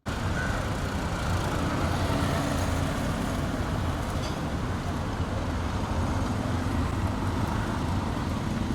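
Loud, steady road traffic noise with vehicle engines running; it starts and stops abruptly.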